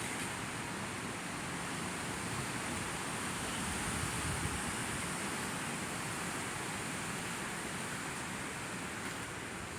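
Steady hiss of rainfall during a thunderstorm, even and unbroken, with a faint unsteady low rumble underneath and no thunderclap.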